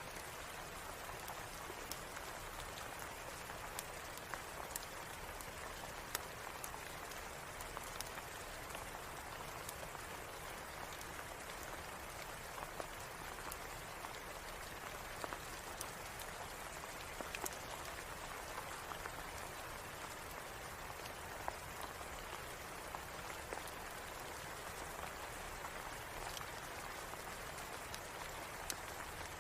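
Steady rain mixed with the scattered sharp pops of a crackling fireplace.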